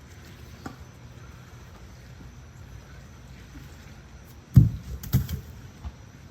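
Fire pit blocks being set down: one heavy thud about four and a half seconds in, followed by a few lighter knocks, over steady low outdoor background noise.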